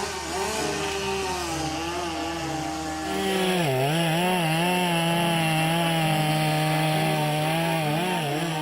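Chainsaw running under throttle. About three seconds in it gets louder and higher, then its pitch sags and recovers several times, as an engine does when it is loaded while cutting wood.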